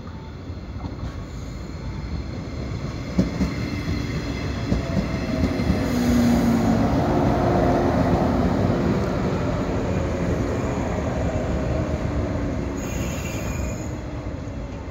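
JR 115-series electric train pulling into the station past the listener as it slows, its wheels clicking over rail joints. The running noise swells as the cars pass close and then eases, with a short high squeal of the brakes about six seconds in and again near the end as it comes to a stop.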